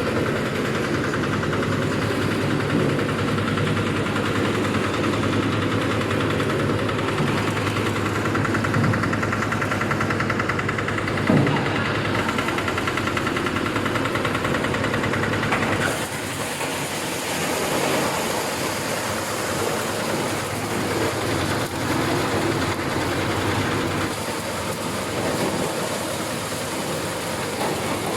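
Corn husking and shelling machine running steadily with a continuous mechanical drone. About 16 seconds in the low hum drops and a brighter hiss takes over.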